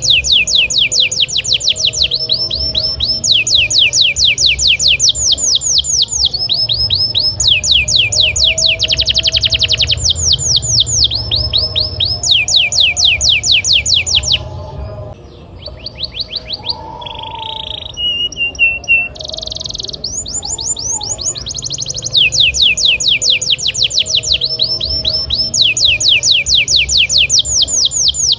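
Canary singing a long, loud song made of rapid trills: runs of quick, repeated downward-sweeping notes, many to the second, switching to a new phrase every second or two. About halfway through it briefly breaks into a few slower, lower notes before the fast rolls resume.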